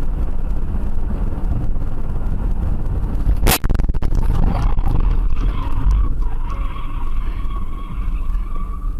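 Car and road noise in traffic, with one sharp bang about three and a half seconds in, then a steady high squeal, like skidding tyres, through the last few seconds.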